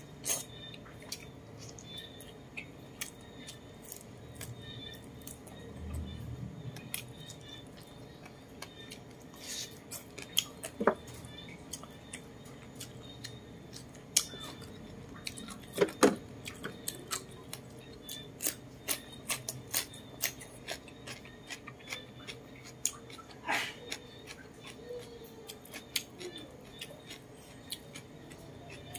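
Close-up eating sounds of roast chicken eaten by hand: a steady run of small wet mouth clicks and smacks from chewing, with a few louder clicks now and then.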